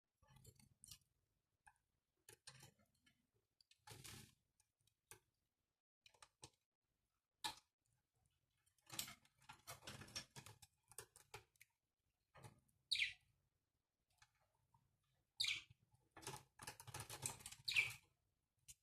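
Pet parrots squabbling at a water drinker: faint scattered clicks and rustling, with three louder sharp chirps that fall in pitch in the second half.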